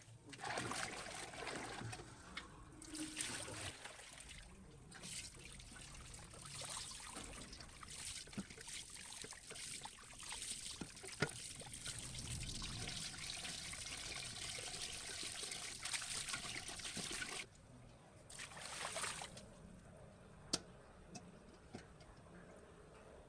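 Water trickling and running in uneven spells, stopping about two-thirds of the way through, followed by a few sharp clicks.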